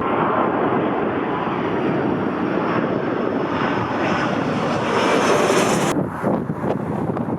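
Jet airliner's engines running loud and steady, a faint high whine over the rush, which cuts off suddenly about six seconds in.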